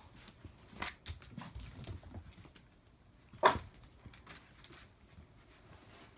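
A dog gives one short, sharp vocal sound about three and a half seconds in, among scattered light taps and scuffles.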